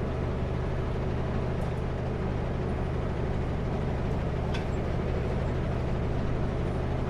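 Kenworth W900L semi truck cruising at highway speed, heard from inside the cab: a steady low engine drone with road noise.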